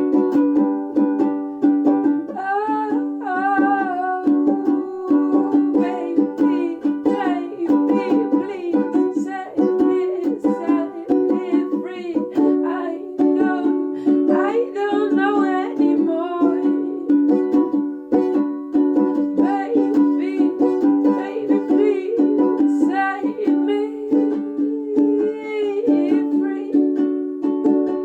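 Ukulele strummed in a steady rhythm, with a voice singing over it in a few stretches, for example a few seconds in and around the middle.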